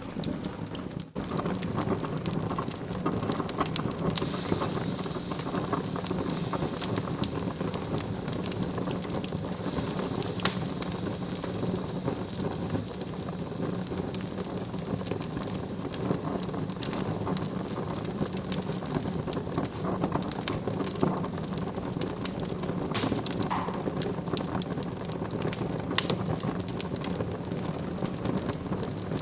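Wood fire burning in a fireplace, crackling steadily with many small pops and a few sharper snaps, and a high hiss from the burning wood for several seconds near the start.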